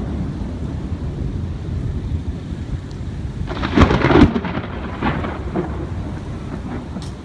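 Storm wind buffeting the phone's microphone as a steady low rumble, with a stronger gust about four seconds in.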